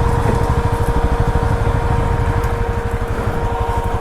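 Bajaj Pulsar NS200 motorcycle engine running at low revs, a fast even pulse of firing strokes with a faint steady whine above it.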